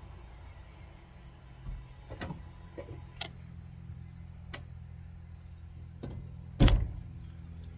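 Supercharged four-cylinder engine of a 1999 Mercedes-Benz C230 Kompressor running at a low, steady idle while it struggles to keep running, with several sharp clicks and one loud knock about six and a half seconds in.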